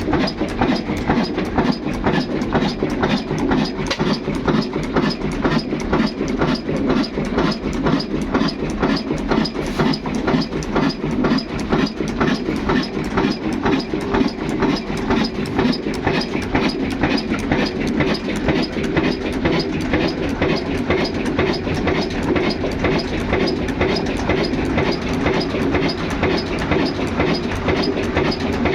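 A 22 HP Ruston Hornsby diesel engine running with a steady, even beat that does not change.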